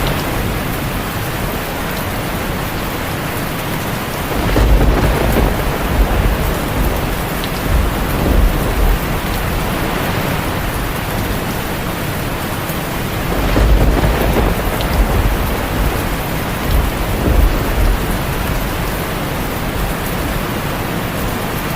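Heavy rain drumming steadily on a tin roof, with two long rolls of thunder: one rumbling in about four seconds in, another about halfway through, each lasting several seconds.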